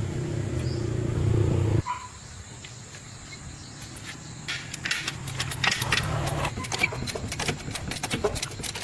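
A vehicle engine running steadily, then cutting off abruptly about two seconds in, followed by a quieter stretch of scattered light clicks and taps.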